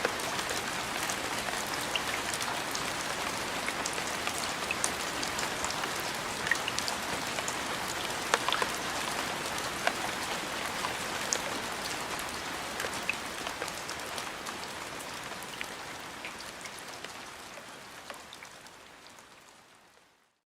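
Steady rain with scattered sharp drop ticks, fading out slowly over the last several seconds to silence.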